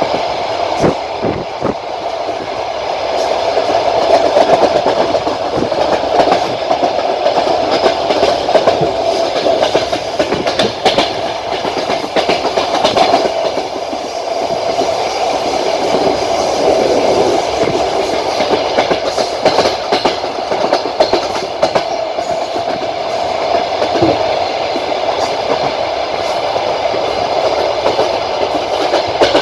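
Passenger train running at speed: the wheels clatter over the rail joints against a steady rolling rumble.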